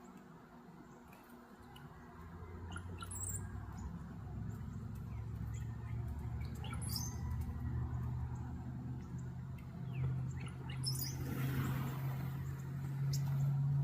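A few short, high bird chirps over a low, steady droning hum that grows louder from about two seconds in.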